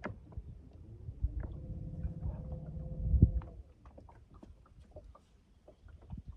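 A small motor hums steadily from about a second in for roughly two and a half seconds, with scattered light clicks and knocks and one louder knock near its end.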